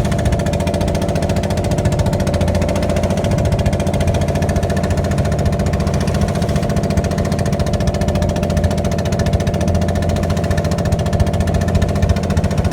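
An engine running steadily at constant speed, with a fast, even chugging pulse that does not change.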